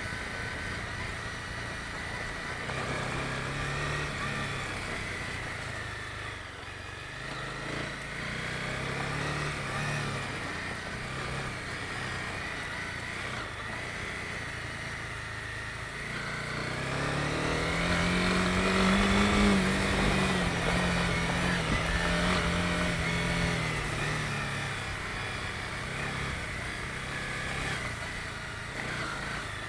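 Honda CB250R's single-cylinder engine running under way on a forest road. Engine speed climbs a little past halfway, holds higher for several seconds, then eases back.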